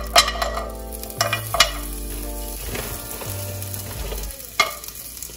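Mini chicken-and-vegetable dumplings dropped one at a time into hot olive oil in a frying pan. Each one hits with a short burst of sizzling, about five in all, the loudest right at the start, over a steady frying hiss.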